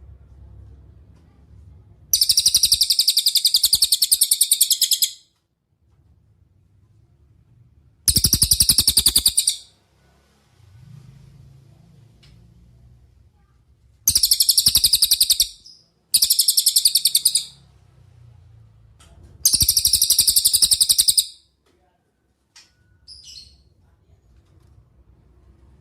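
Cililin songbird singing: five loud, very rapid high-pitched trills, each lasting two to three seconds, with short pauses between.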